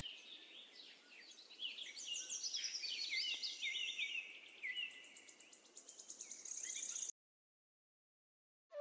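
Several birds chirping and twittering in quick, overlapping calls, ending in a rapid trill; the sound cuts off suddenly about seven seconds in.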